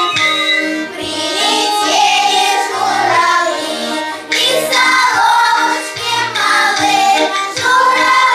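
A child singing a song over instrumental accompaniment, with the melody line above steady bass notes.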